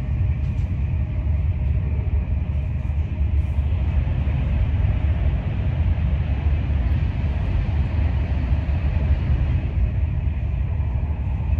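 Passenger train running at speed, heard from inside the carriage: a steady low rumble of wheels on rail and running noise.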